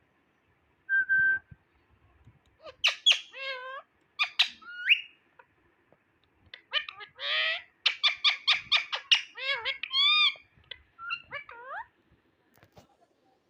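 Indian ringneck parakeet vocalizing: a short steady whistle about a second in, then rapid runs of sharp clicking calls and warbling, pitch-bending squawks.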